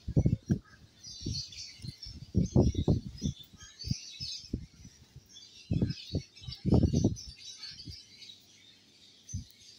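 Birds chirping continuously in high twittering notes, broken by loud low bumps and rumbles in several bunches: near the start, about two and a half seconds in, and around six to seven seconds in.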